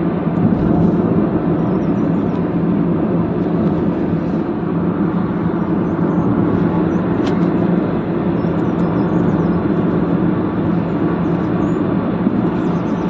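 A car driving, with a steady drone of engine and road noise over a constant low hum.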